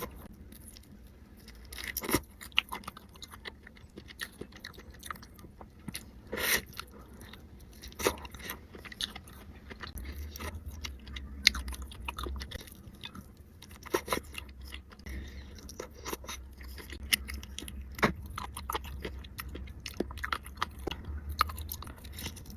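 Close-miked chewing and biting of seafood: wet mouth clicks and smacks with occasional crunches, a handful of louder bites standing out.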